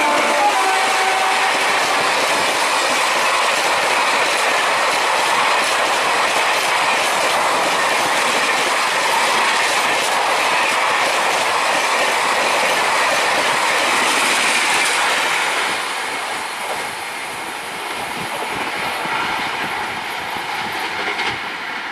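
Indian Railways express train passing at speed: a loud steady rush of wheels clattering on the track, which drops away after about fifteen seconds as the train goes by. The tail of its horn, falling in pitch, fades out in the first second.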